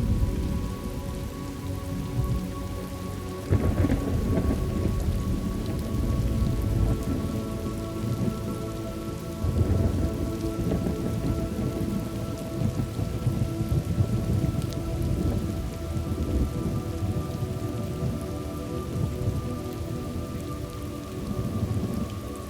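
Steady rain with rolling thunder. Thunder breaks in suddenly about three and a half seconds in and again near ten seconds, then rumbles on.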